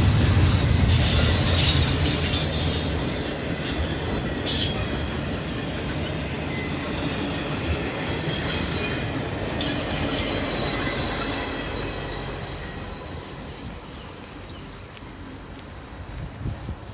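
Railroad cars rolling past, with wheel rumble and bursts of high-pitched wheel squeal about a second in and again about ten seconds in. The sound fades away over the last few seconds as the train passes.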